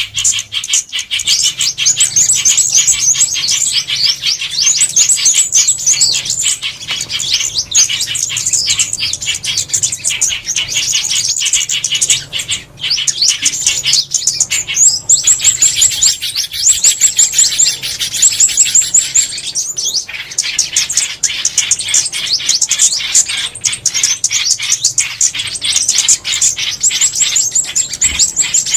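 Lure recording of small songbirds, white-eyes among them, twittering continuously in rapid, overlapping high chirps, with a run of thin repeated whistled notes in the middle and a brief lull a little before it.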